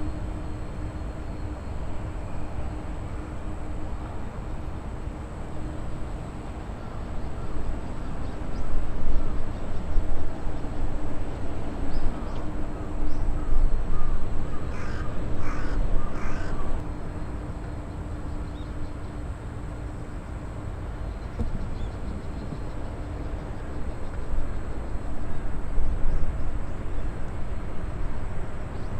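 A bird giving several short, harsh calls in quick succession around the middle, over a steady low rumble of outdoor background noise.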